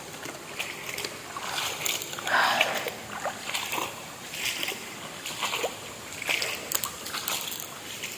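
River water splashing in a run of short, uneven splashes, the loudest about two and a half seconds in.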